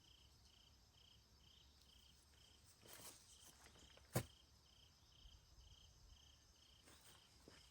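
Faint cricket chirping steadily about twice a second, with a soft rustle about three seconds in and a single sharp click just after four seconds.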